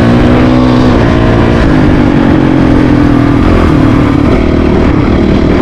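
Honda CRF450RL's single-cylinder four-stroke engine running while riding, its revs climbing gradually and then easing off about three seconds in, with a steady low wind rush on the microphone.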